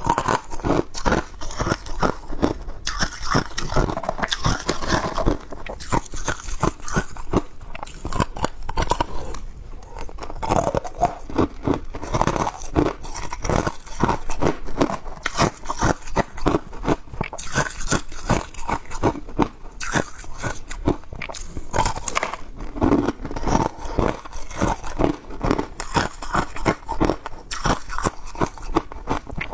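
Ice being bitten and chewed close to the microphone: continuous crunching and cracking, with dense irregular crackles and no pauses.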